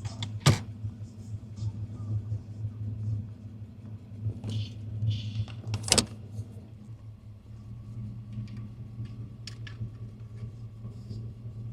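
Car engine idling with a steady low rumble, heard from inside the cabin, with two sharp clicks: one just after the start and one about halfway through.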